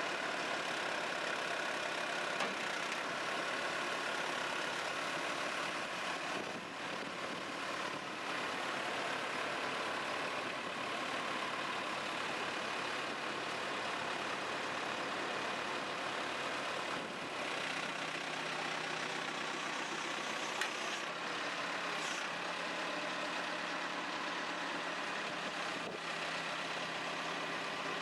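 JCB 3CX backhoe loader's diesel engine running steadily.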